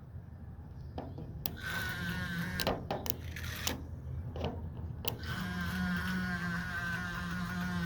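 Small electric motor of a radio-control boat whining in two runs, from about a second and a half in and again from about five seconds in, with a few sharp clicks or knocks between.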